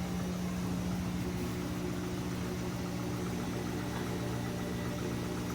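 GE front-loading washing machine spinning, its motor and drum giving a steady hum, with the load going off balance.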